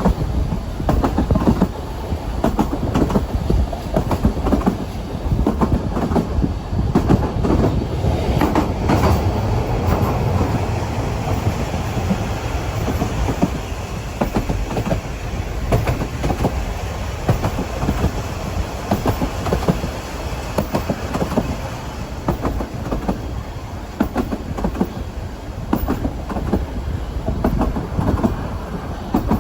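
Narrow-gauge Ffestiniog Railway train running, with a continuous low rumble and irregular clattering knocks from the wheels and coaches on the track.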